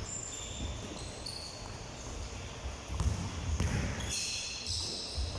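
Basketballs bouncing on a hard hall floor, with dull thuds at irregular intervals and short high squeaks, in an echoing large room.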